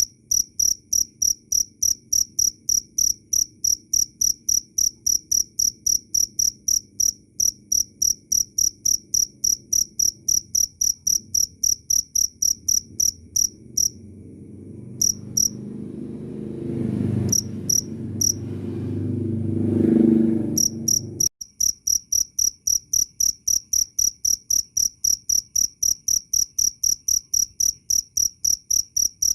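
Cricket chirping steadily in high-pitched pulses, about three a second. Midway the chirps mostly stop while a low noise builds for several seconds and cuts off suddenly, then the chirping resumes.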